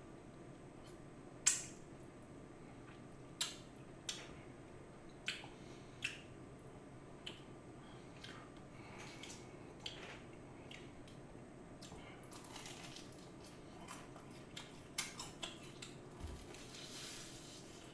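Eating sounds of a person on fried chicken: sharp crunchy clicks and smacks every second or so, with a denser stretch of crunching chewing near the end as he bites into a piece.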